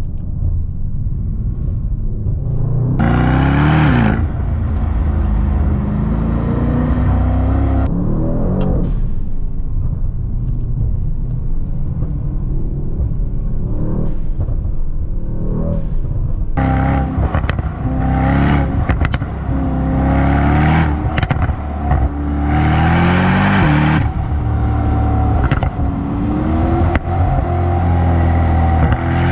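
Brabus Rocket GT 900's twin-turbo V8 through its Brabus performance exhaust, accelerating hard several times, its pitch climbing and dropping back as it shifts gears or lifts off. Short sharp crackles and pops break in between the pulls.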